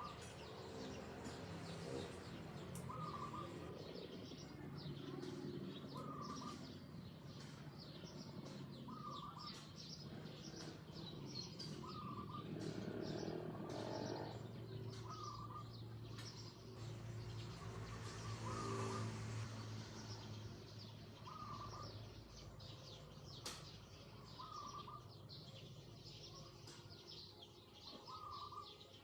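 Countryside ambience: small birds chirping, with one bird repeating a short call about every three seconds. Under it runs a faint low hum, and a broad rushing noise swells twice.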